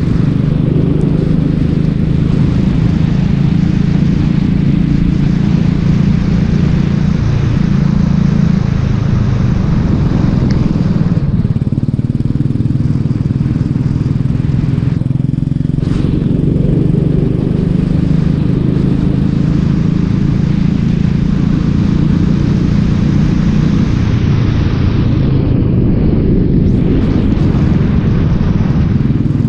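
Racing kart engine running hard, easing off briefly three times, about a third of the way in, halfway, and near the end, then picking up again, as the driver lifts for corners and accelerates out.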